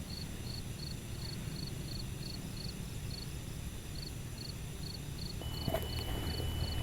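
Insects chirping in a steady rhythm, about three short high chirps a second, over a low steady rumble of outdoor background. A few light knocks come near the end.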